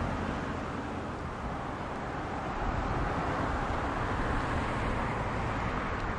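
Diesel freight train at a station platform: a steady low rumble with a broad hiss over it, no distinct strokes or horn.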